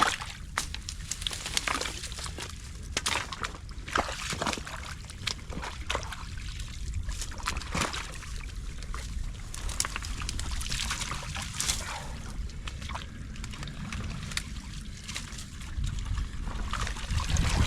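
Creek water sloshing and trickling through a beaver dam, with repeated splashes and sharp knocks throughout as the rock-filled dam is pulled apart.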